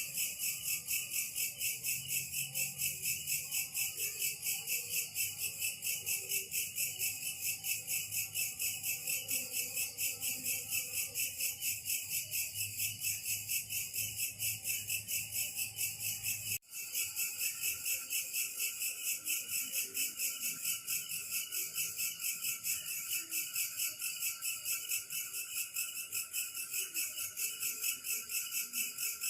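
Crickets chirping in a fast, even, continuous pulse of about four beats a second. The sound cuts out for an instant about two-thirds of the way through, then carries on.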